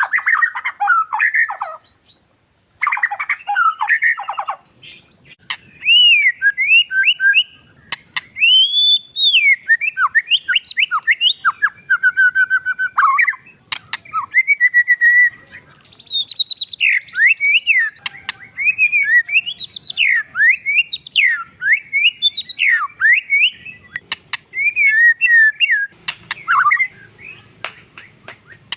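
Oriental magpie-robin in full song: a long, varied run of rapid whistled phrases that sweep up and down in pitch, broken by short pauses a couple of seconds and about five seconds in.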